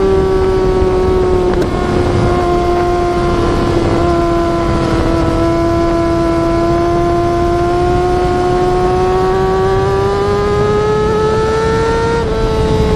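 Yamaha R6 inline-four sport-bike engine held at high revs with one steady, strong note. The pitch sags slowly over several seconds, then climbs near the end and drops back.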